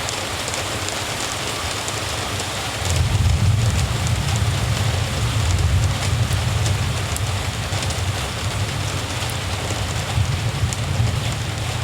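Steady rain falling, with a deep low rumble that swells about three seconds in and carries on.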